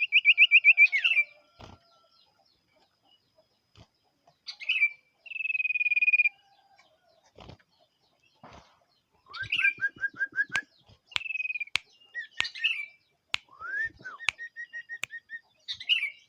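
Common iora (cipoh) singing in lively phrases: fast runs of repeated whistled notes, a held warbling note and upward slurs, separated by short pauses. Several sharp clicks fall among the later phrases.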